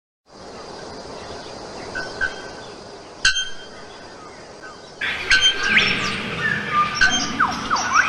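Birds chirping and calling, faint at first and then much louder and busier from about five seconds in, with many overlapping chirps and quick whistled glides. A single sharp click about three seconds in.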